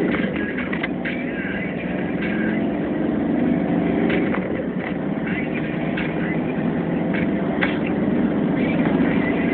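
Volkswagen Polo Mk3's four-cylinder engine running under hard acceleration, with a few short clicks over it.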